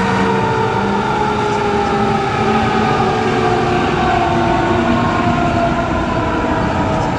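Fire truck siren sliding slowly and steadily down in pitch over the rumble of the truck's engine.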